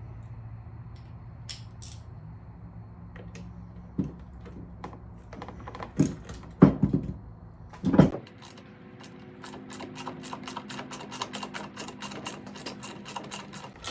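Hand tools knocking and clattering against the leaf blower's parts, then a ratchet clicking in a steady run of quick clicks. A low steady background hum cuts off about eight seconds in.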